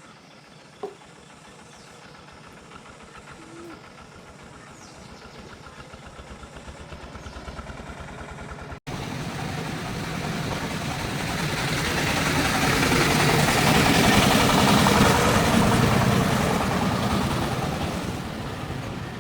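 A vehicle engine running. After a short break about halfway through, it grows much louder, peaks, then fades again toward the end.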